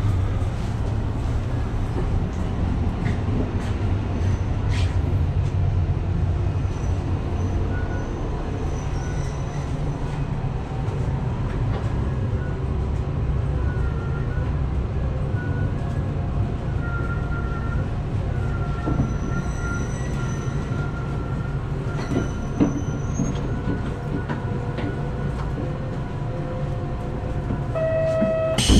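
Inside a Shimabara Railway diesel railcar slowing into a station: a steady low rumble from the engine and wheels, with thin high brake squeal from about halfway through as it comes to a stop. Just before the end a short tone sounds, then the door opens with a loud rush.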